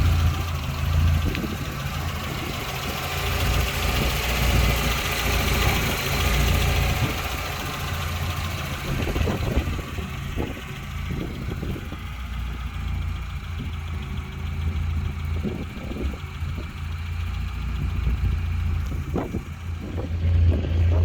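Mitsubishi Lancer engine idling steadily, with a few light knocks in the second half.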